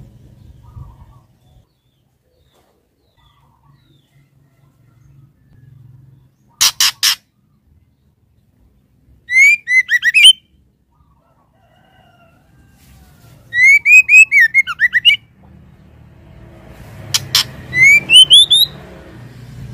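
Female white-rumped shama calling: a few sharp clicks, then three short bursts of quick, rising chattering notes with pauses between them. It is the call a hen shama uses to draw a male.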